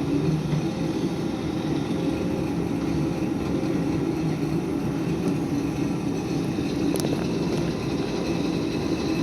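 Drill press running steadily with an even motor hum while drilling, with a single sharp click about seven seconds in.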